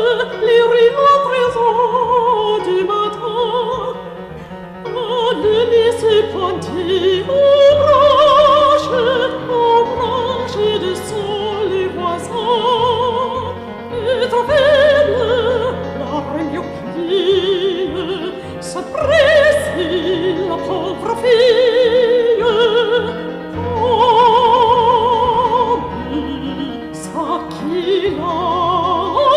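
Operatic singing: a high voice holding long notes with wide vibrato over an instrumental accompaniment.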